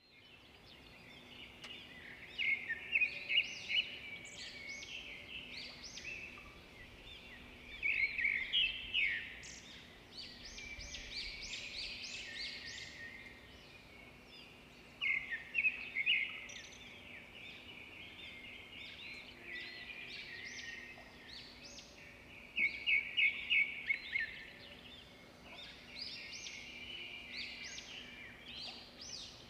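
Birds chirping and twittering throughout, with loud clusters of quick chirps every several seconds, over a faint steady hum.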